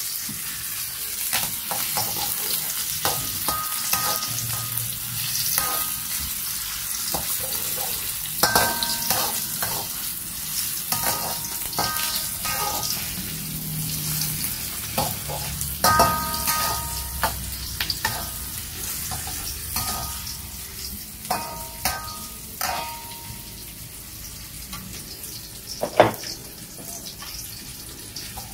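Chopped ginger sizzling in hot oil in a steel wok, with a metal spatula scraping and clinking against the wok as it is stirred, the strokes ringing briefly. One sharp clack near the end is the loudest sound, and the sizzle is fainter over the last few seconds.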